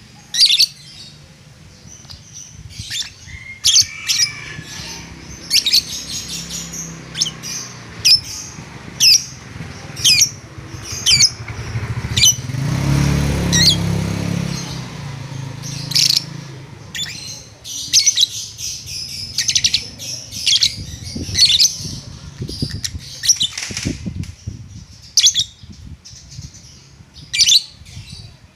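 Lovebird giving short, sharp, high-pitched chirps and squawks, repeated at irregular intervals of about a second: the chattering 'ngetik' song that bird keepers prize. A low rumble swells and fades around the middle.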